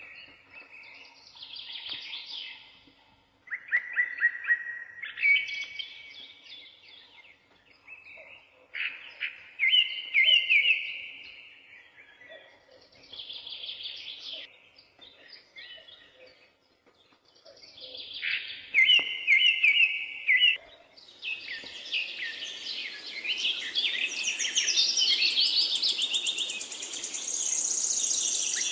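Songbirds singing in short phrases of quick notes, a few seconds apart. About three-quarters of the way through, more birds join in overlapping song over a steady hiss.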